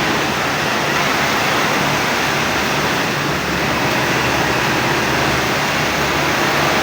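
Steady, loud machine noise: an even rushing hiss over a faint low hum, with no change throughout.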